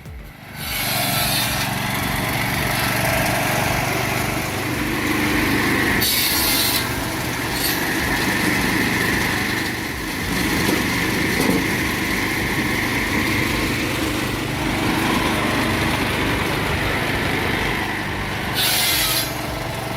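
Chainsaw firewood-cutting machine running with a steady drone, and the chain cutting through logs. Short bursts of louder hiss come about a second in, around six seconds, and near the end.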